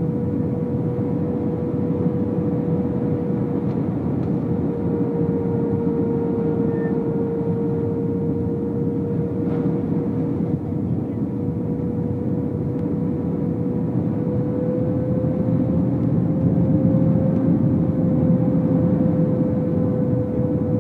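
Airbus A319 cabin noise: a steady rush of engine and air noise with a constant engine whine. The whine rises slightly in pitch and the noise grows a little louder about three-quarters of the way through.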